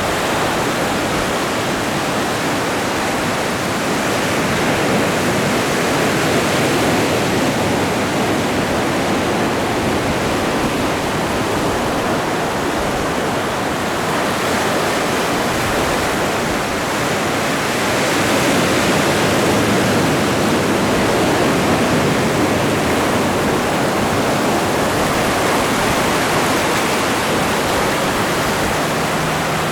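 Atlantic Ocean surf: a continuous wash of breaking waves that slowly swells and eases, loudest at about a quarter of the way in and again past the middle.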